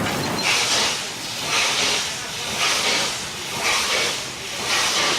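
Steam locomotive chuffing slowly, with a hiss of steam about once a second. A low rolling rumble of the train fills the first half-second.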